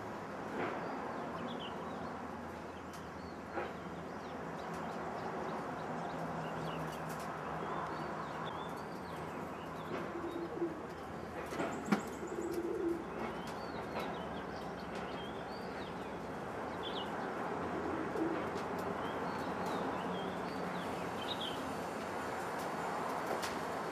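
Racing pigeons cooing, with scattered short high chirps and a few sharp knocks, the loudest about halfway through.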